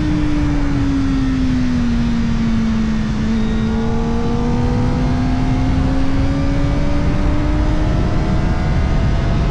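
Kawasaki Ninja ZX-4RR's 399 cc inline-four running through an Arrow Indy Race Evo titanium exhaust with the dB killer fitted, heard on board. The revs drop over the first two seconds, then climb slowly and steadily to the end as the bike pulls in one gear.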